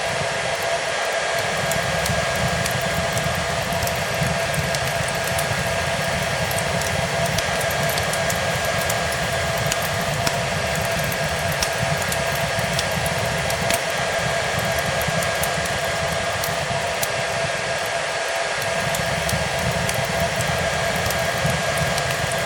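Hair dryer running steadily, a whooshing blow of air with a constant motor whine, mixed with the faint scattered crackle of a wood fire.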